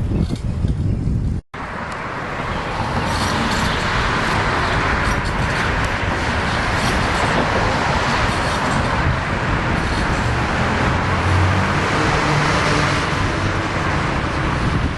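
Wind rushing over the microphone of a camera on a moving bicycle, mixed with road traffic noise. The noise is steady and loud, and a brief dropout cuts it about a second and a half in.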